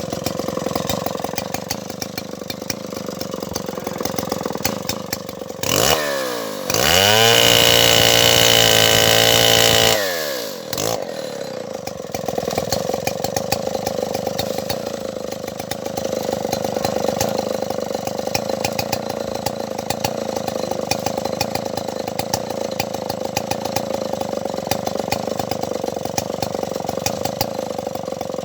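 Stihl 070 two-stroke chainsaw engine idling, revved up about six seconds in and held at full throttle for roughly four seconds, then dropping back to a steady idle.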